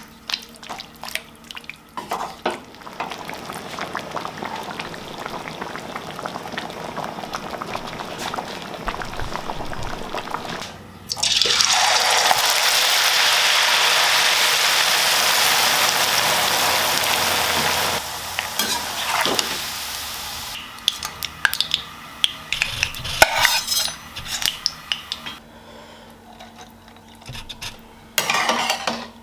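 Home cooking in a pan: a utensil stirring and scraping with scattered clinks of metal on cookware, and a loud steady hiss for about seven seconds from about eleven seconds in that cuts off suddenly, then more clatter of utensils and dishes.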